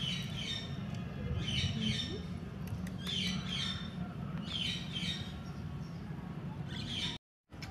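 Small birds chirping in about five quick bursts of short, falling high notes, over a steady low hum.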